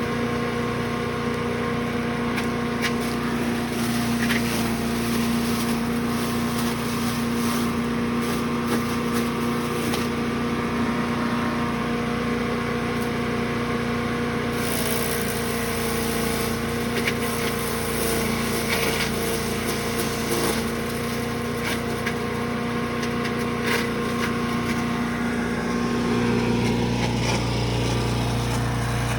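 Brush Master 3-in-1 wood chipper/shredder running on its gasoline engine with a steady drone, broken by frequent short clicks and knocks. The engine note drops lower near the end.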